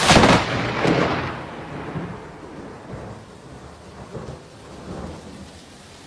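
A close thunderclap: a sharp crack, a second peal about a second later, then a rolling rumble that fades over several seconds, with rain falling.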